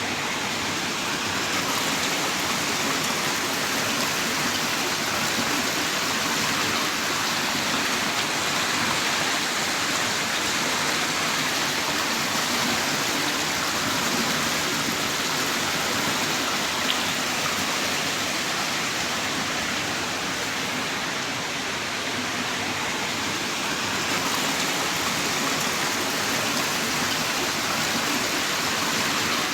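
Heavy rain pouring down in a steady, dense hiss, with no thunder or separate drips standing out.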